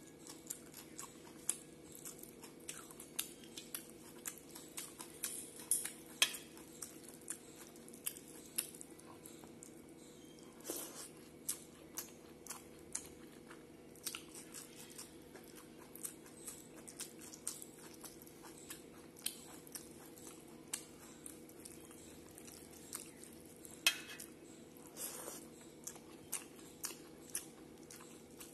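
Close-up eating by hand: chewing and wet mouth clicks with some crunching, over a steady low hum.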